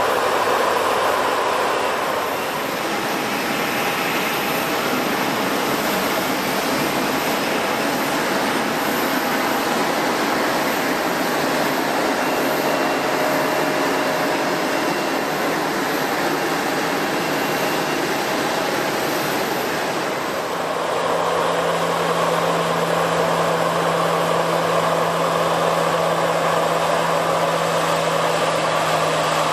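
Jet airliner engines running, a steady broad rushing noise; about twenty seconds in the sound shifts and a steady low hum joins it.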